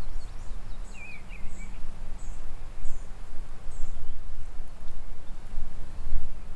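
Wind rumbling and buffeting on the microphone outdoors, with a small bird's short warbled call about a second in and faint, high chirps repeating roughly every two-thirds of a second through the first half.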